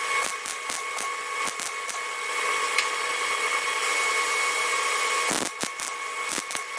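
A power tool working on steel: a steady whine over a gritty hiss, broken by irregular sharp crackles that ease off in the middle and pick up again about five seconds in.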